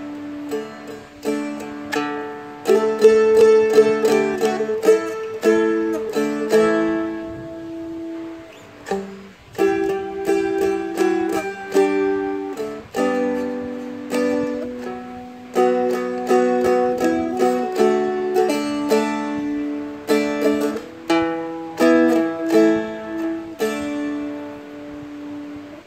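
Seagull Merlin M4 fretted dulcimer played slowly: single picked notes and strummed chords ringing through a series of chord changes, often with the root note picked just before the chord.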